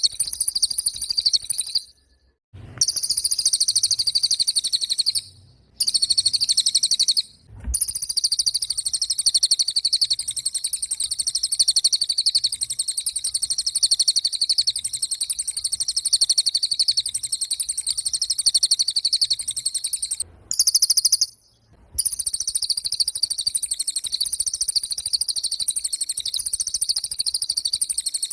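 Cililin bird singing vigorously: a high, very rapid, buzzing trill that keeps going, broken by a few brief pauses.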